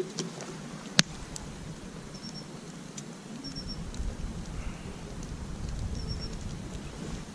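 Campfire crackling, with scattered small pops and one sharp, loud pop about a second in. A low rumble sets in about halfway.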